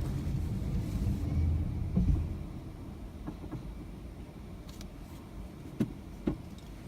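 Toyota RAV4 Hybrid slowing under braking: a low rumbling noise that ends in a thump about two seconds in as the car comes to a stop. After that it is quieter, with two sharp clicks near the end.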